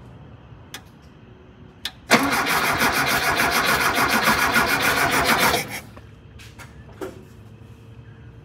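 Volkswagen Thing's air-cooled flat-four engine cranked on the starter for about three and a half seconds, with an even, fast beat, after a couple of light clicks. It stops suddenly without the engine catching; the ignition was not firing.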